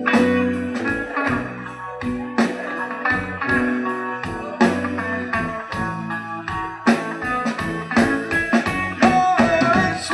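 A live band playing an instrumental break in a slow blues-tinged country song: a lead electric guitar plays over bass and drums, with notes bending near the end.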